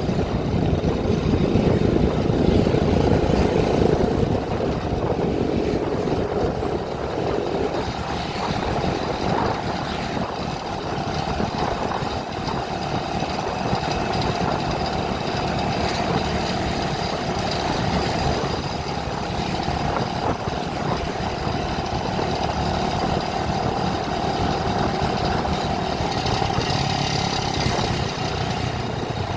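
A vehicle engine running steadily with a continuous rumble, a little louder for the first few seconds.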